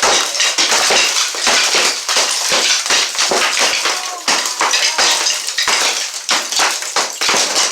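Wall demolition: a steady run of sharp knocks and cracks, several a second, over a continuous clatter of broken pieces crumbling and falling.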